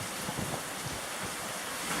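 Rain falling in strong, gusting wind, with the wind buffeting the microphone in low, uneven rumbles under a steady hiss.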